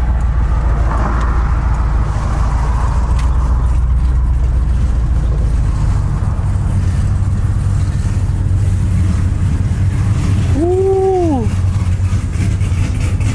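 Pickup truck's 4.8-litre V8 running as it drives, a deep steady drone whose note shifts about six seconds in. Near the end a short tone rises and falls once, lasting about a second.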